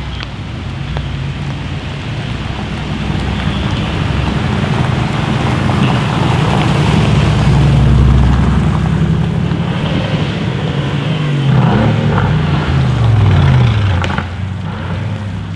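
Mercedes-AMG GT R's twin-turbo V8 running hard, building to its loudest about halfway through, then falling in pitch over a couple of seconds near the end.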